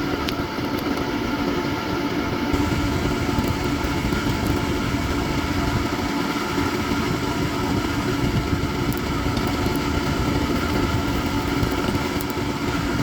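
Steady hum of a running workshop machine's motor, holding one constant pitch, with a few faint ticks.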